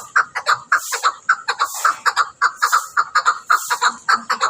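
Chukar partridge calling: a rapid, unbroken series of short chuck notes, about four or five a second.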